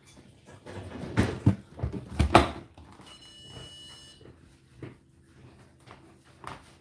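A quick series of knocks and bangs, like a door or cupboard being handled, then a short high ringing tone lasting about a second, over a steady low hum.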